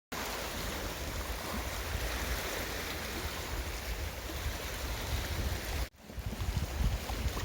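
Steady outdoor rushing noise with a heavy low rumble, broken by a brief dropout about six seconds in.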